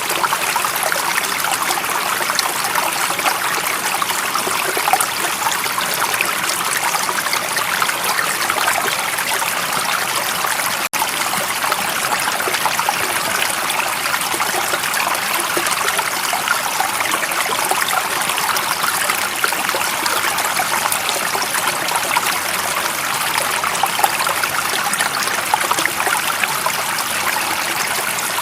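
Water of a stream running steadily, an even rush of flowing water with no break in its texture. There is one momentary dropout about eleven seconds in.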